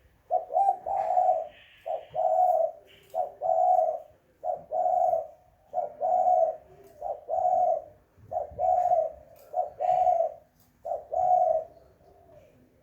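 Spotted dove (tekukur) cooing over and over, a long run of low, hoarse coo phrases with short gaps between them, stopping about a second before the end. Faint, short high chirps sound above the cooing.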